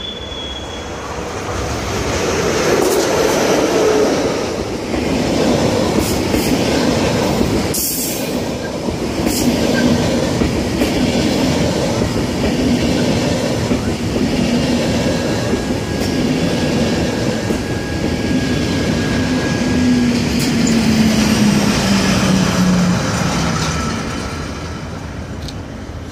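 SBB Re 460 electric locomotive hauling a passenger train into a station: wheels and carriages rumbling and clattering over the track, with a thin high squeal for a few seconds midway. Near the end a whine falls in pitch and the noise eases as the train slows.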